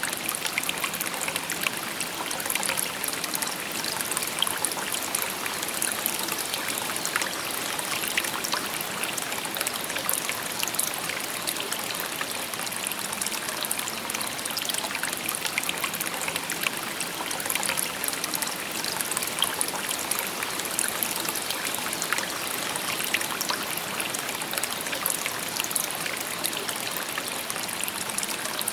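A shallow river babbling steadily over stones, with a constant rush of water and many small splashes and trickles.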